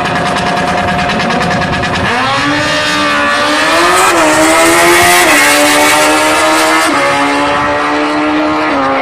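Drag-racing motorcycle engine held at steady revs, then launching about two seconds in with a rising pitch. The pitch steps down at each upshift as the bike runs through its gears.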